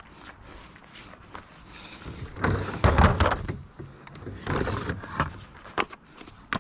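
Car jack being pulled out of its stowage in the car: two runs of clunks and rattling, about two and a half seconds in and again around the middle, with a few sharp clicks near the end.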